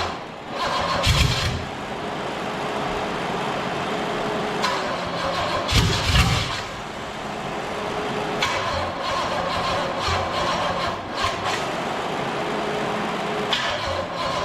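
Cadillac V8 on an engine run stand running roughly through open exhaust headers, with two short, loud surges about a second in and about six seconds in, as it struggles to settle on its first startup.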